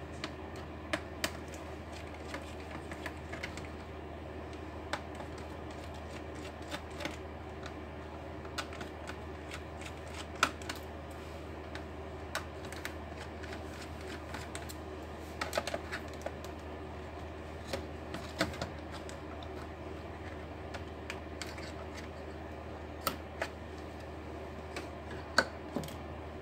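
Irregular small clicks and taps of hand tools and plastic parts as an Acer Nitro laptop is being taken apart, a few louder snaps among them, over a steady low hum.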